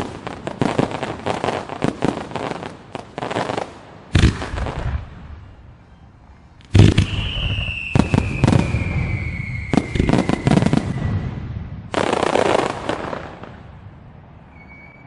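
Fireworks finale: rapid salvos of sharp crackling bangs and booms. The loudest boom comes about seven seconds in, followed by a whistle falling slowly in pitch over a few seconds. A last cluster of bursts dies away near the end.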